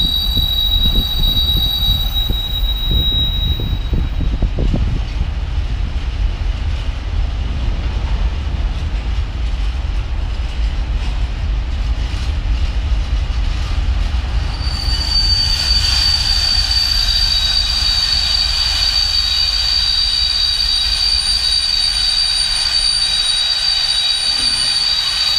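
A freight train of VTG covered hopper wagons passing: a steady low rumble of wheels on rail with clattering knocks over the first few seconds. A high, steady wheel squeal sounds briefly at the start and returns about halfway through, then holds to the end.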